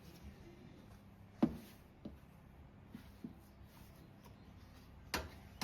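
A few short knocks and clicks of objects being handled, the loudest about a second and a half in and another near the end, with smaller taps between, over a faint steady hum.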